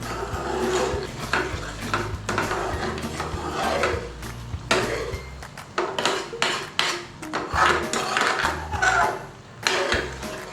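A spoon stirring and scraping through thick curry sauce in a metal pan, with repeated clinks and knocks against the pan, over background music.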